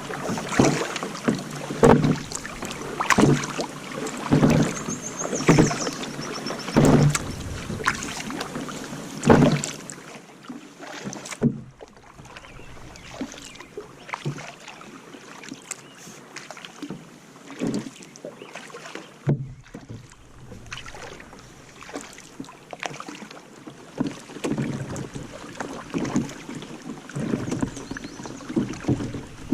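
Paddles dipping and pulling through the water beside a two-seater Pelican paddle boat, with a knock on each stroke about once a second. The strokes go softer and sparser about ten seconds in and pick up again near the end.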